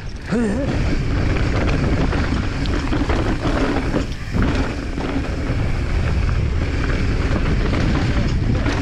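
Wind rushing over the action camera's microphone during a fast mountain-bike descent, with the bike's rumble and rattle over rough trail underneath.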